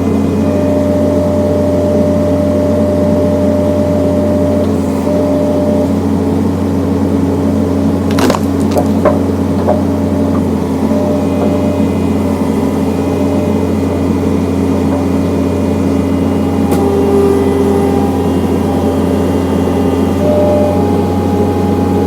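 John Deere skid steer engine running steadily as it powers a hydraulic log splitter, with a sharp crack of wood splitting about eight seconds in and another sharper snap near the end.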